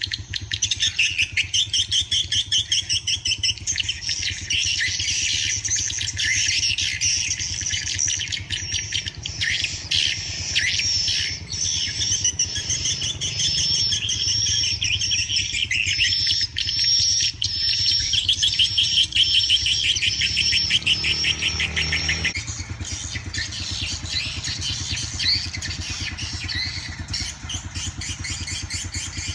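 A flock of swiftlets chirping in dense, rapid trills near a swiftlet house entrance hole, thinning out about three quarters of the way through. A steady low engine hum runs underneath.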